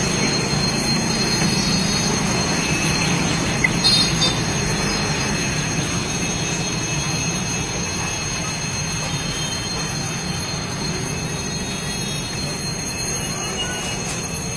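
Train running on street-level tracks: a steady rumble with a thin high wheel squeal, slowly fading away. A short knock about four seconds in.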